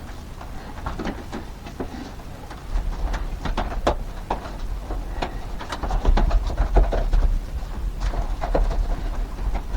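Irregular clicks, knocks and rattles of hands working electrical conduit and wire, with a low rumble that comes in about a quarter of the way through.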